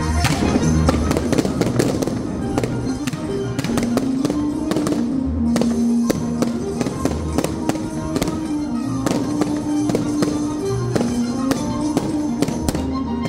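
Fireworks going up and bursting, a rapid, irregular run of sharp bangs and crackles, over music that plays throughout.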